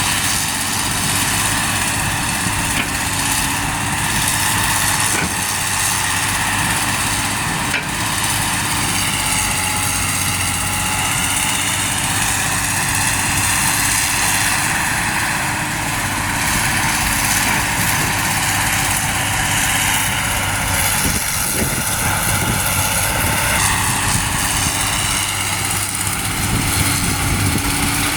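Heavy diesel truck engines running steadily at low revs.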